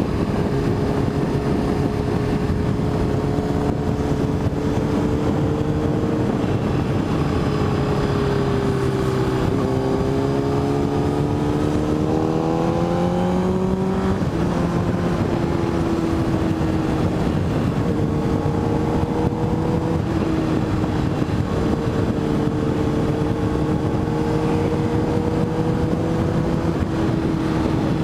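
Motorcycle engine running under way at a steady pitch. About ten seconds in it rises in pitch as the bike accelerates, drops suddenly at a gear change around fourteen seconds, then holds steady again.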